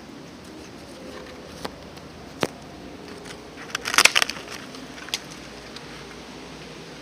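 Bamboo giving sharp cracks: a few single cracks, then a quick cluster of loud crackling about four seconds in.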